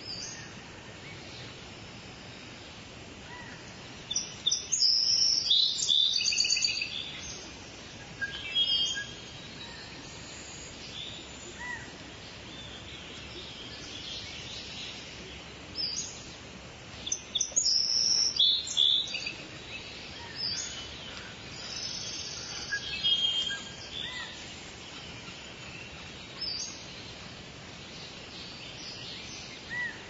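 Wild birds calling with high-pitched chirps and trills, in two loud spells: about four seconds in and again around seventeen seconds in, with a few single short calls between. A steady hiss runs underneath.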